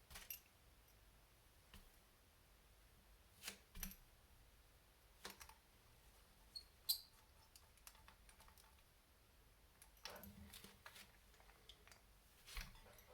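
Quiet, scattered small clicks and taps of small model-kit parts and tools being handled during assembly, the sharpest one about seven seconds in.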